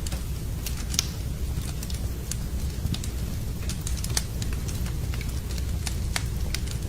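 Wood fire in a fireplace burning with a steady low rumble and irregular sharp crackles and pops from the burning logs.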